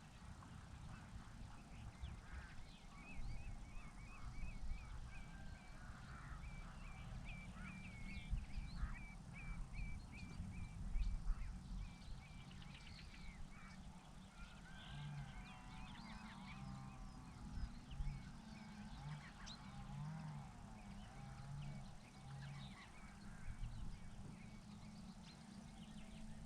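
Birds calling at a lake: a run of short, evenly repeated high notes lasting several seconds, then lower wavering calls, over a steady low rumble.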